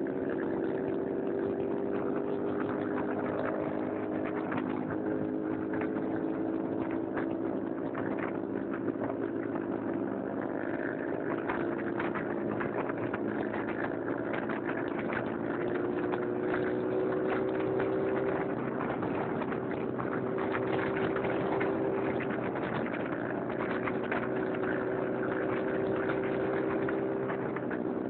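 Small motorcycle engine running at a steady cruising speed, heard from on the bike, with its hum holding nearly one pitch over a rushing noise of wind and road.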